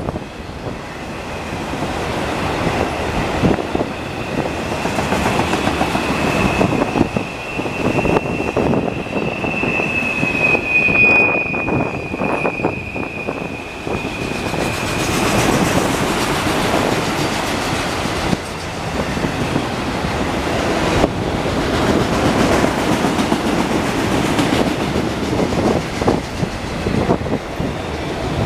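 Freight train of auto rack cars rolling past, with the steady rumble and clatter of steel wheels on rail. A thin, high, steady wheel squeal rises in about a second in and stops about halfway through.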